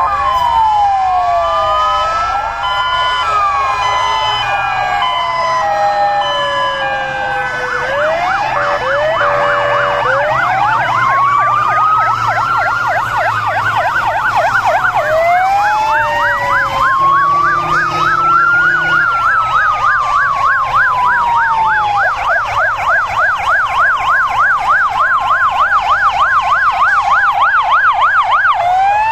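Many emergency-vehicle sirens sounding at once as fire engines drive past in convoy: slow rising and falling wails overlap steady two-tone notes, and a fast yelping warble joins about a third of the way in.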